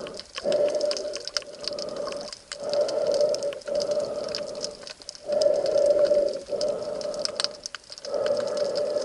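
Breathing of the swimmer filming underwater, in and out about every two and a half seconds, each breath a loud rushing sound. A faint crackle of fine clicks runs throughout.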